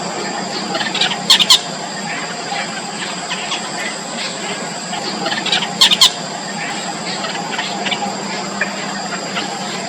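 Bittern nestlings begging in the nest: scattered faint squeaky chirps with two loud double squeals, about a second and a half in and again about six seconds in, over a steady high-pitched drone.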